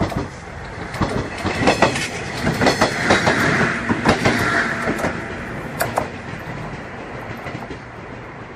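JR West 105 series electric train passing close by, its wheels clattering over the rail joints in quick clicks over a rushing rumble, loudest in the middle and fading away after about six seconds.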